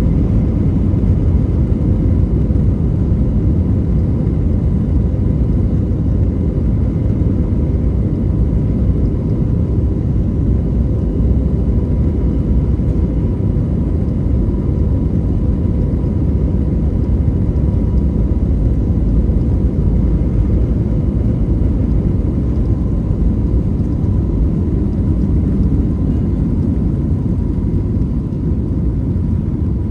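Airbus A321neo jet engines running at high power, heard inside the cabin near the wing, with a steady deep rumble, airflow noise and a faint steady whine during the departure.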